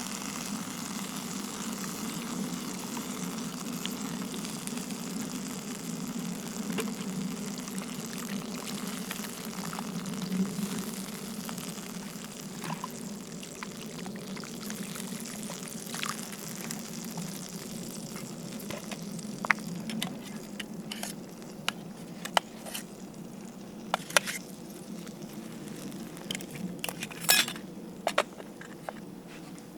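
Food cooking over a campfire: a steady bubbling, sizzling hiss from the cookware that slowly fades. Scattered sharp clicks come in the second half.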